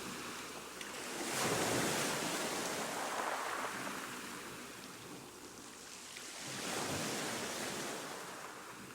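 Ocean surf: waves washing in, two swells surging up about a second and a half and about seven seconds in, then fading down.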